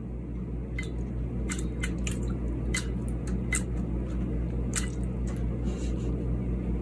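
A high chair vacuum running with a steady low hum while leftover food crumbs click irregularly as they are sucked up.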